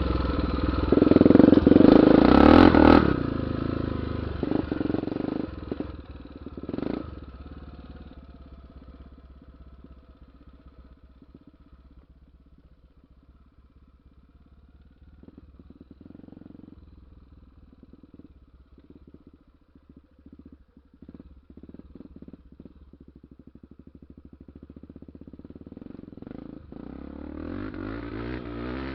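Honda XR 250 Tornado's single-cylinder four-stroke engine revving loud for the first few seconds, then falling to a quieter, uneven low-speed run with scattered rattling clicks, and climbing in pitch again as it accelerates near the end.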